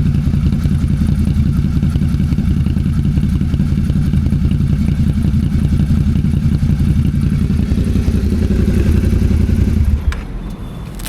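Suzuki SV650's V-twin engine running steadily under the rider. About ten seconds in there is a sharp click, and the engine sound suddenly drops much quieter.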